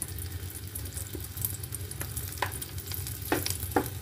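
Stuffed roti parcel frying in a thin layer of hot oil in a pan: a steady, light sizzle. A few short clicks come in the second half.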